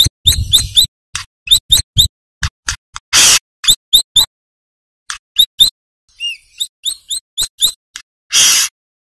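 Brown-throated sunbird calling: a fast series of short, sharp, high chirps, broken by two harsher raspy bursts, one about three seconds in and one near the end.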